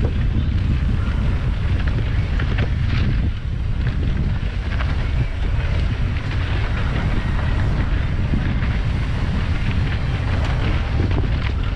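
Wind buffeting the camera microphone while a mountain bike rides a dirt trail, with tyre noise and scattered short rattles and clicks from the bike over rough ground.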